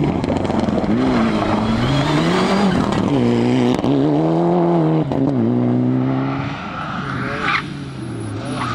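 Rally car engine revving hard, its pitch climbing and falling several times as it changes gear. It eases off for a moment late on, with one sharp crack, then picks up again.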